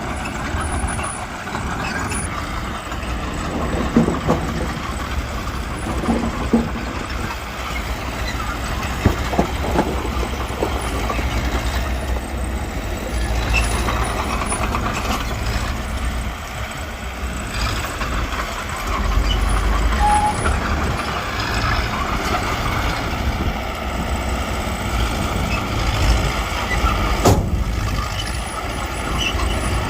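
Heavy diesel earthmoving machinery, a bulldozer working with dump trucks, running steadily with a deep continuous rumble. A few sharp metallic clanks cut through, one near the end the loudest.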